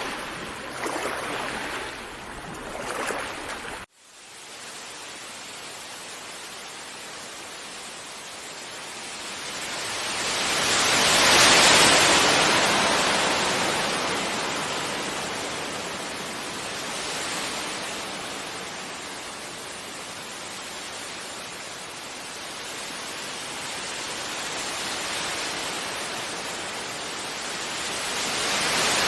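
Gentle sea waves washing onto a beach: a wash of surf that swells to its loudest about ten seconds in, then slowly ebbs, with smaller swells after and another building near the end. The sound cuts out for an instant about four seconds in.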